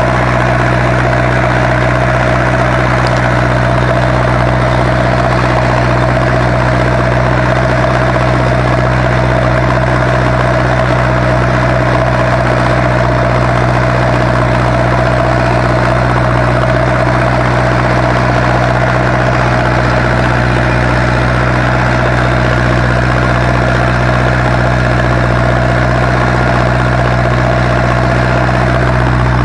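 Zetor 7245 tractor's four-cylinder diesel engine running steadily and loudly at a constant speed.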